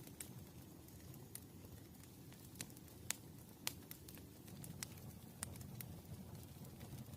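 Campfire burning: a low steady rush of flames with scattered sharp crackles and pops from the burning wood, two of them louder a little under halfway through.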